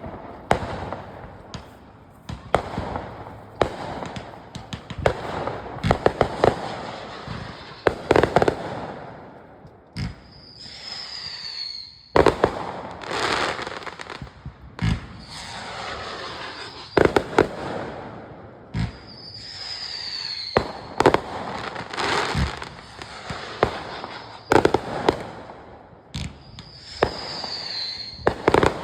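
Consumer fireworks going off in quick succession: many sharp bangs and crackling, with a few short falling whistles.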